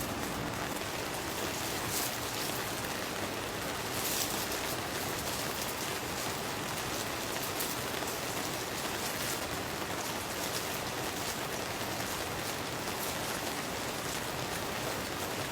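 Steady rain falling on a tent: a constant even hiss with scattered sharper drop hits.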